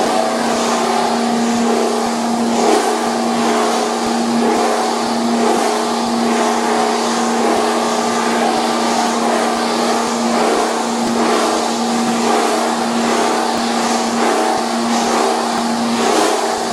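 Cable copper-wire recycling machine running: a steady motor hum under a rough grinding noise that swells roughly once a second.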